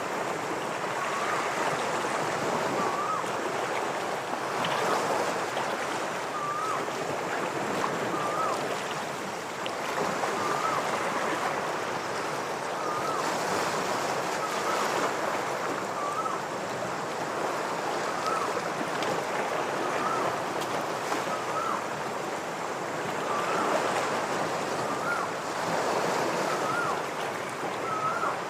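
Ocean waves washing and breaking against shoreline rocks in a steady surging rush. A short whistled call repeats every second or two above it.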